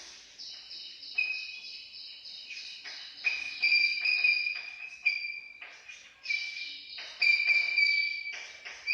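Marker squeaking on a whiteboard as a heading is written: a run of short, high squeaks, one per stroke, at an irregular pace.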